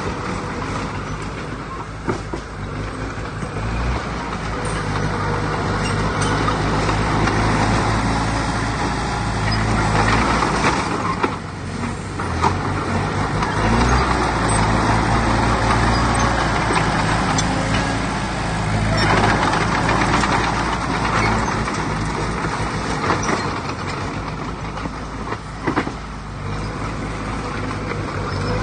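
Heavy diesel engines of earthmoving machinery running steadily, the sound swelling and easing with load, with a few sharp knocks.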